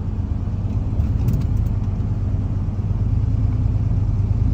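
Cammed twin-turbo LS V8 engine running steadily as the car is driven, heard from inside the cabin as a steady low engine note.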